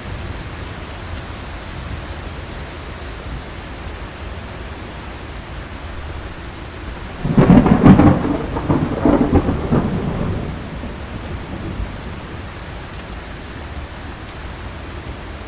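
Steady heavy rain, with a single thunderclap about seven seconds in: a sudden crack that rolls on as rumbling thunder for about three seconds before the rain is heard alone again.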